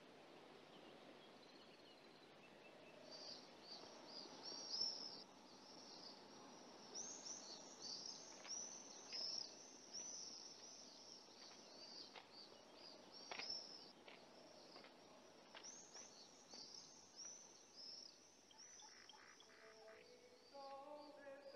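Faint birdsong: small birds chirping, many short high chirps in quick succession, starting a few seconds in, over the steady hiss of an old film soundtrack. Near the end a faint sequence of lower held tones joins in.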